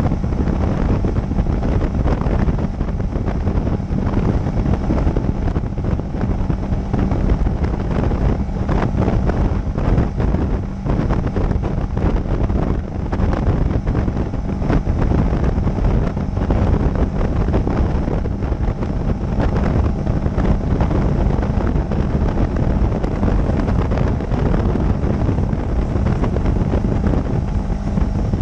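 Steady wind rush on the microphone of a motorcycle at cruising speed, with the motorcycle engine running underneath at an even pitch.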